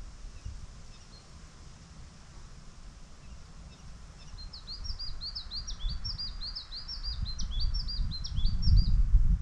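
A small songbird sings a fast run of high chirping notes, about four a second, for roughly five seconds starting midway. Underneath, a low rumble of wind on the microphone grows louder near the end.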